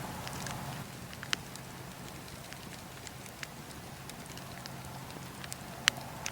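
Campfire of burning logs crackling: scattered sharp pops and snaps, a loud one about a second in and the loudest near the end, over a steady low hum.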